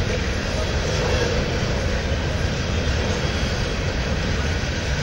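Freight train of open-top hopper cars rolling past, a steady rumble of steel wheels on rail, with a faint steady tone in the first second or so.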